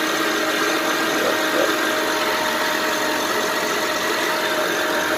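2007 Honda Pilot's 3.5-litre V6 idling steadily, heard from under the open hood, with a steady whine over the engine note.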